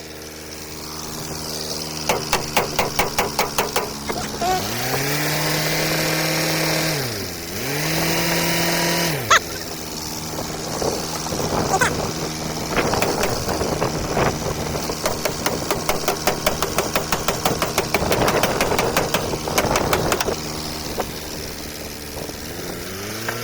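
Power tool motor spinning up, running steady and winding down twice in a row, with bursts of rapid, even rattling strikes before and after, typical of bodywork tools on a car door.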